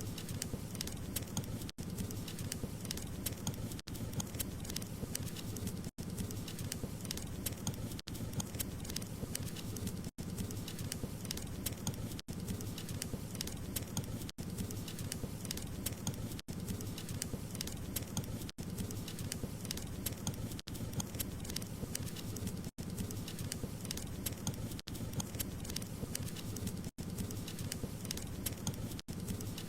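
Wood fire burning in a fireplace: dense, steady crackling and popping over a low rumble of the flames, with tiny gaps in the sound about every two seconds.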